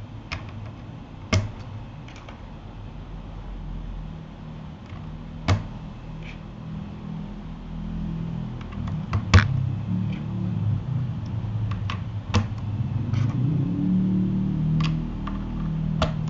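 Scattered sharp clicks and taps from a Keychron K8 mechanical keyboard being worked on, about a dozen at irregular intervals, over a steady low hum.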